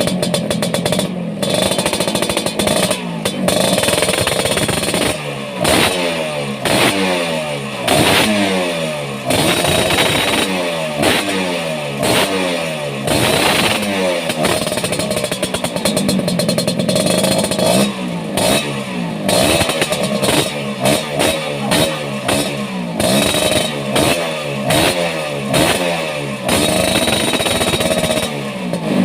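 Vespa scooter engine with an aftermarket ATT racing exhaust, revved over and over in short blips that rise and fall in pitch, with a few longer held revs between them.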